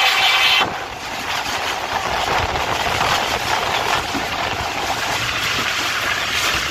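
Tez Gam Express passenger train running, a steady noise of wheels and air in motion. A louder hiss at the start drops off sharply about half a second in, and the running noise continues at a lower level.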